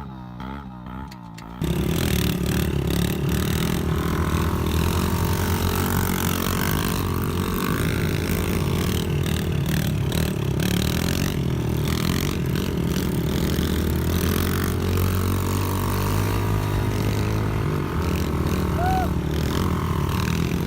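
Small pit bike engine running loud and steady, its pitch wavering slightly as the bike is ridden; it comes in suddenly about a second and a half in after a quieter, wavering tone.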